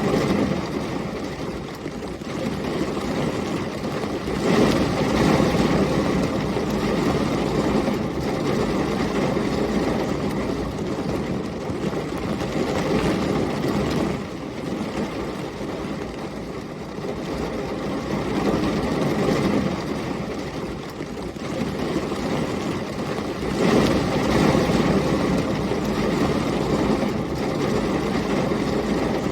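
Heavy rain with storm wind, a steady rushing noise that twice swells into a deeper rumble, about four seconds in and again near the end.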